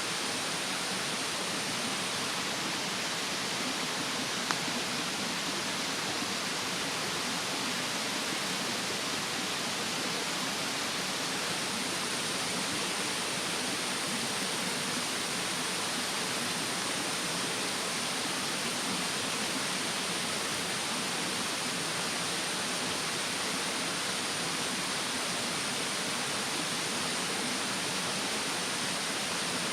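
Steady rushing of a mountain stream, with a campfire burning and one sharp pop about four and a half seconds in. A thin, high insect drone fades out early and comes back about twelve seconds in.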